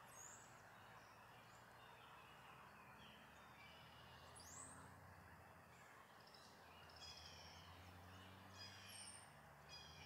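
Faint high bird calls: an arched whistled note about four and a half seconds in, and runs of quick repeated chirps near the end, over a faint low hum.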